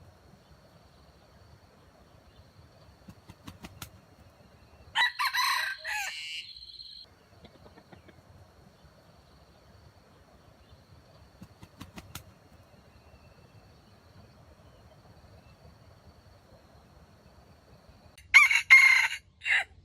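Rooster crowing twice: one drawn-out crow about five seconds in, and a second crow in several short parts near the end.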